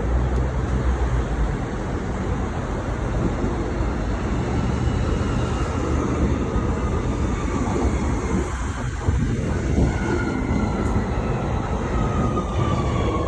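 Transperth B-series electric multiple-unit train running on the rails, a loud steady rumble. From about ten seconds in, a whining tone joins it and slowly falls in pitch.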